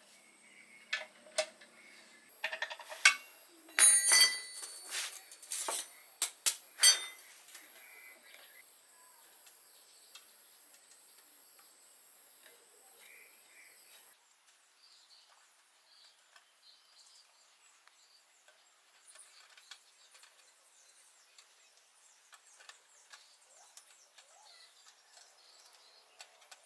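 Metal clinking and knocking as tools and parts are handled, a cluster of sharp strikes in the first seven seconds, then only faint scattered ticks.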